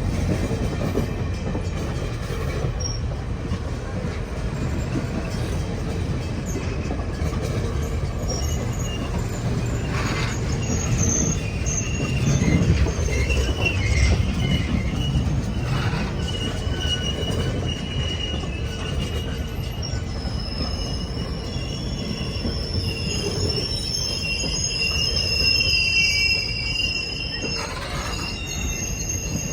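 Train passing at speed with a steady rumble of wheels on rail and a few knocks. High wheel squeal sets in about two-thirds of the way through and runs on.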